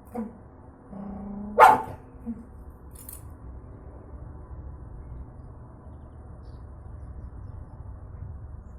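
A dog gives one loud bark a little under two seconds in, just after a brief low sound, then falls quiet.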